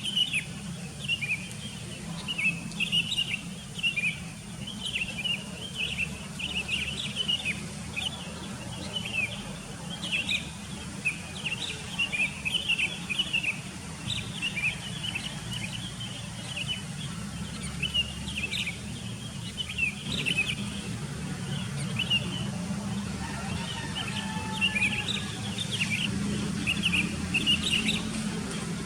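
Sooty-headed bulbuls chirping continuously in a chorus of many short, overlapping calls, over a steady low rumble.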